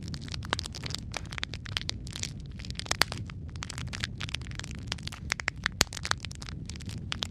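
Wood fire crackling in a fireplace: dense, irregular pops and snaps over a steady low rumble of flames, with a few sharper, louder cracks, one about three seconds in and another near six seconds.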